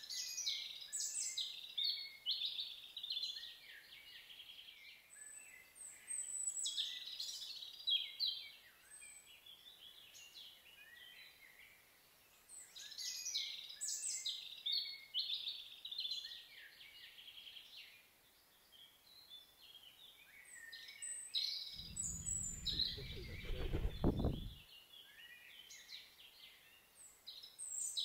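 A songbird singing repeated high, varied phrases, each a few seconds long, with short pauses between. A low rumble lasts a few seconds about two thirds of the way through.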